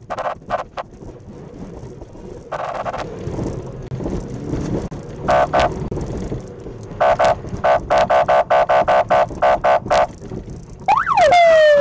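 Car horn sounding in short repeated honks, a few scattered ones and then a rapid series of about a dozen, followed near the end by a brief police siren whoop that sweeps up and falls, signalling a car to pull over.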